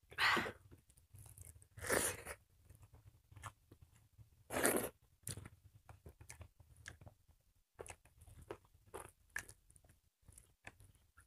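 Close-miked eating sounds: chewing and crunching of rice and dried buffalo meat (sukuti), with three louder crunching bites in the first five seconds and small wet clicks between.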